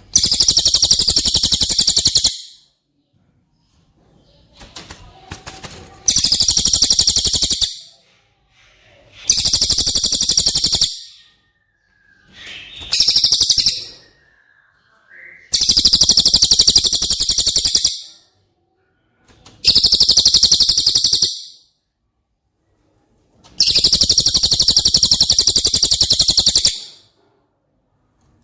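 Cililin songbird singing a very rapid, high-pitched trill, delivered in seven bursts of one to three seconds with short pauses between them.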